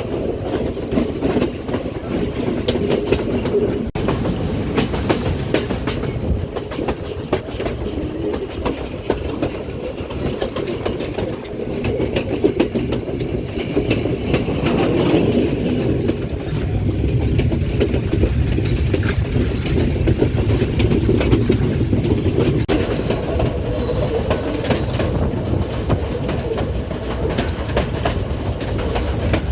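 Colombo–Badulla Night Mail passenger train running along the line: steady rumble with the wheels clattering over the rail joints and the carriage rattling, a little louder from about halfway through, with a brief high squeal near the end.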